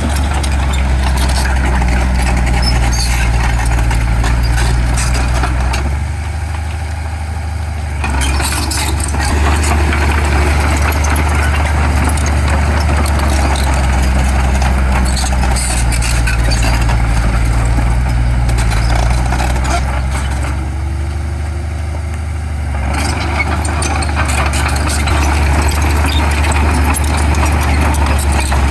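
Heavy diesel earthmoving machinery running steadily under load, with a deep engine hum. The engine eases off briefly twice, about six seconds in and again about twenty-one seconds in, then picks up again.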